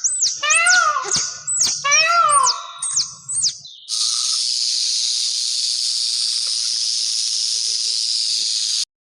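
Cat meowing several times, each call rising and falling in pitch. About four seconds in, a steady hiss takes over and cuts off abruptly near the end.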